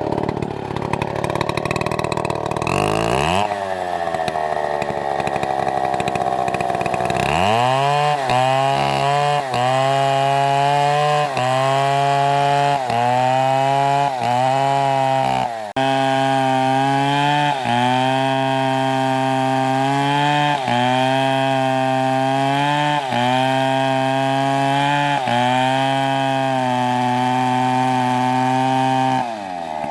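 STIHL chainsaw cutting wood. For the first few seconds its engine speed sinks, then about seven seconds in it goes back to full throttle and holds there, with brief dips in pitch every second or two.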